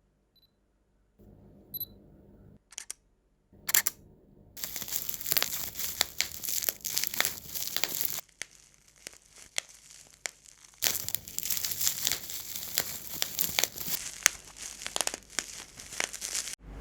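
Crinkling and rustling, like handled paper or plastic, picked up through a USB gaming headset's microphone during a mic test. A few sharp clicks come first, then dense crackling that eases off in the middle and cuts off suddenly near the end.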